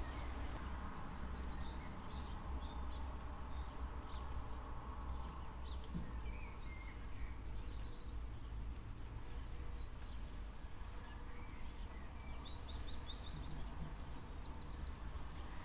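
Birds chirping and calling, with short high chirps scattered throughout and a quick run of chirps near the end, over a steady low background rumble.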